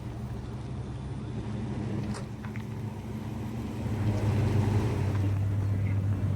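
A car engine running with a steady low rumble that gets louder about four seconds in, as if the car is pulling closer.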